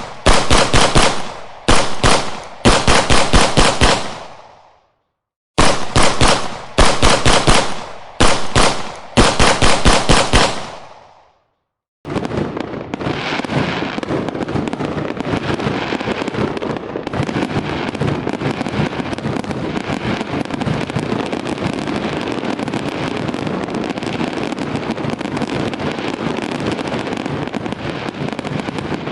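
Several bursts of rapid automatic gunfire, each a second or two long, with short gaps between. About 12 seconds in, they give way to a continuous dense crackle of fireworks.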